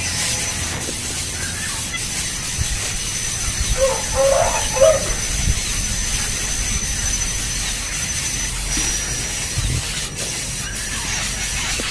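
Outdoor ambience: a steady high hiss with a thin high whine running under it, and a short bird call about four seconds in.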